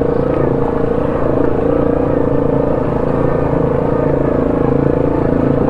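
ATV engine running at a steady, low speed in low-range gear.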